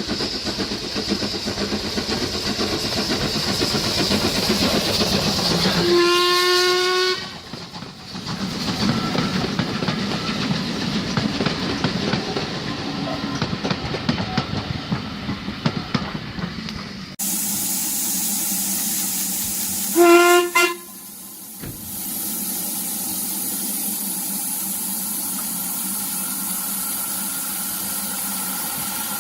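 Steam locomotive, Ivatt Class 2MT No 41241, on the move with loud train running noise, sounding a short steam whistle blast about six seconds in. Later a steady hiss of steam with a second, shorter whistle blast about twenty seconds in.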